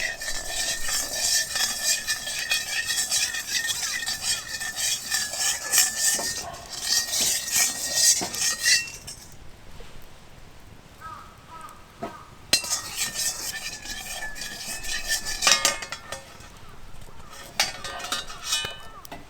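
A metal utensil stirring and scraping in a metal cooking pan, with clinks and a hiss. It stops about nine seconds in and starts again a few seconds later.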